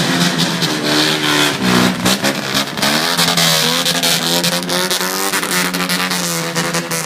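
Car engine blipping its throttle through a takeyari muffler, a tall upswept exhaust pipe: the pitch swells up and falls back again and again over a steady running note, with sharp crackles throughout.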